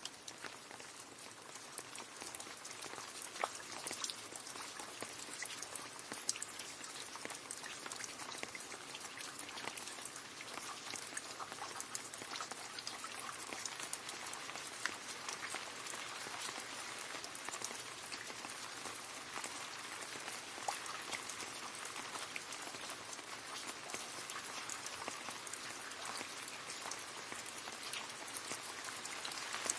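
Steady rain splashing into a puddle, a dense patter of many small drop splashes with a few louder individual drips standing out.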